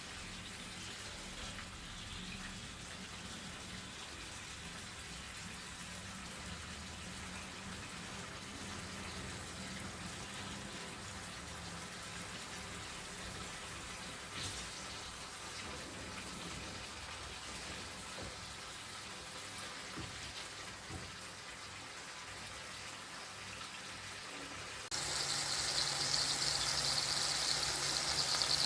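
Soy-marinated chicken livers frying in cooking oil in a pan, a steady sizzle. About 25 s in it turns suddenly louder and brighter, and a low steady hum joins it.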